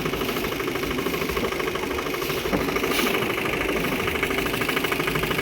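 Motorboat engine running steadily with a fast, even chugging pulse, and one brief tick about halfway through.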